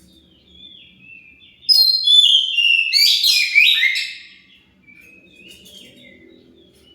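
Oriental magpie-robin (kacer) song: quiet whistled phrases, then a loud burst of rapid, varied chattering notes about two seconds in that lasts a little over two seconds, then quieter whistles again. It is the kind of bait song used to provoke a magpie-robin into answering.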